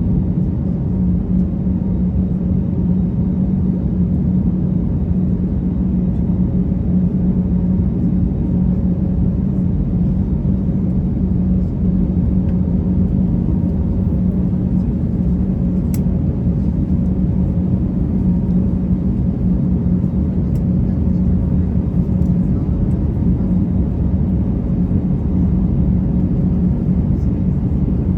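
Steady cabin drone of an Airbus A321 airliner in flight, engine and airflow noise heard from a window seat, with a steady low hum under it. One faint click about two-thirds of the way through.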